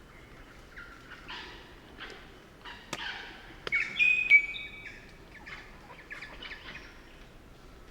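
Crimson rosella calling: a run of short, harsh chattering notes, then clear flat whistles, the loudest about four seconds in. A couple of sharp clicks come near the third second.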